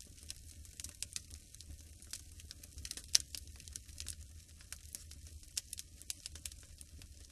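Wood fire crackling in a fireplace: irregular sharp pops and snaps, one much louder pop about three seconds in, over a low steady rumble.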